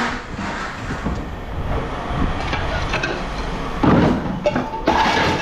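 Steady vehicle engine rumble, with a loud clatter of scrap about four seconds in and a shorter knock about a second later.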